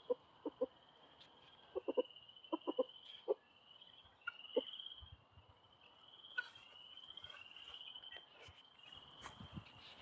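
Chickens clucking in short low notes, often two or three at a time, mostly in the first half, over a faint continuous high-pitched chirring trill.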